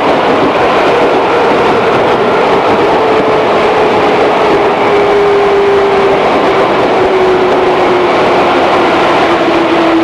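Running sound inside a 211 series electric multiple unit motor car: a steady rumble of wheels on rail with a traction-motor whine slowly falling in pitch as the train slows down.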